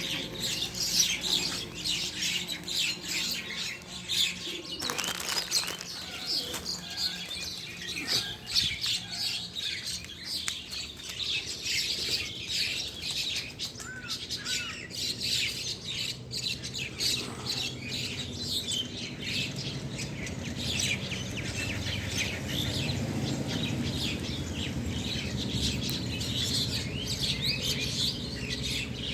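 Small pet birds chirping and twittering continuously, many short high calls overlapping, with a brief rustle of wings about five seconds in.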